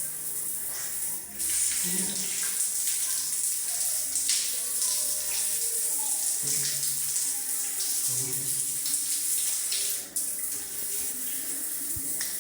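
Water spraying from a handheld telephone shower head fed by an instant water heater, a steady hiss.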